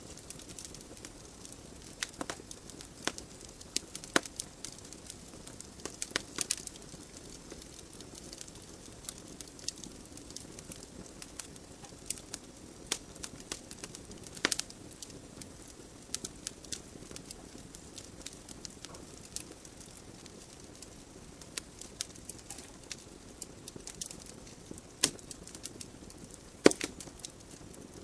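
Wood fire burning in a fireplace: irregular sharp crackles and pops from the burning logs over a soft steady hiss of the flames.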